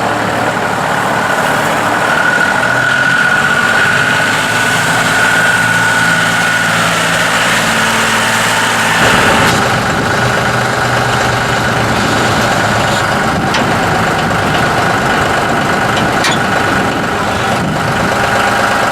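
2010 John Deere 5055E tractor's three-cylinder turbo diesel running steadily. Its sound changes abruptly about nine seconds in.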